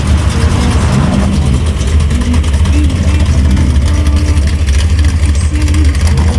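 A car engine idling, loud and steady, with a rapid, even pulsing from the exhaust.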